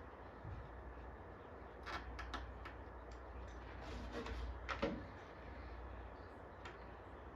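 Faint steady low hum with a few light clicks and taps, the sharpest about five seconds in, from tools being handled while soldering capacitors on a circuit board.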